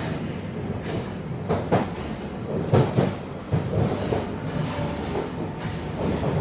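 Alstom 1996 Tube Stock train running on the Jubilee line, with a steady rumble and irregular clacks and knocks as the wheels pass over the track.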